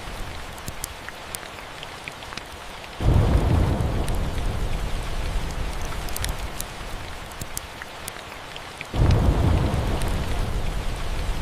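Steady rain with two rolls of thunder: low rumbles that start suddenly about three seconds in and again about nine seconds in, each slowly fading. Scattered sharp crackles of a wood fire sound throughout.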